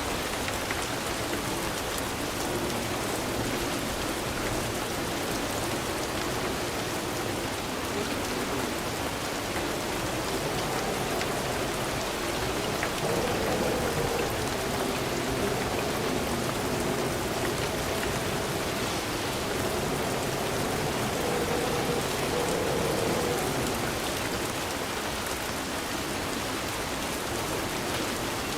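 Rain falling steadily, an even, unbroken patter.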